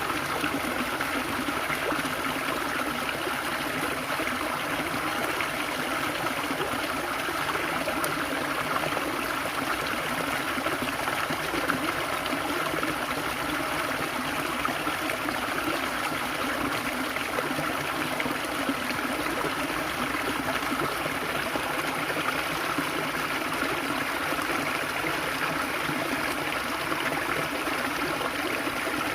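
Water flowing and babbling in a stream, steady and unbroken throughout.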